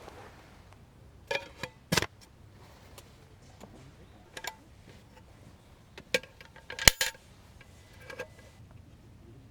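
A series of sharp clinks and knocks, about seven at irregular intervals, several with a brief ringing tone like light metal gear being handled; the loudest comes about two-thirds of the way through.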